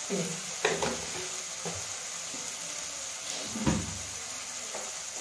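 Onion-and-spice masala frying in oil in a kadhai, a steady sizzle, with a few knocks and clatters of kitchen things, the loudest a thump about three and a half seconds in.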